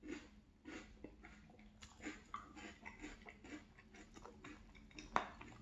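Close-up chewing of crunchy breakfast cereal: a run of short crunches, about one every half second at first and then quicker, with one sharp click near the end.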